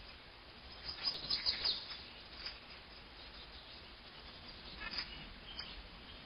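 Wild birds chirping: a quick cluster of short high calls about a second in and a few more around five seconds, over faint steady outdoor background noise.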